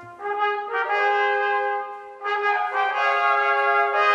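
Brass ensemble playing slow, sustained chords in two phrases, with a brief break about two seconds in.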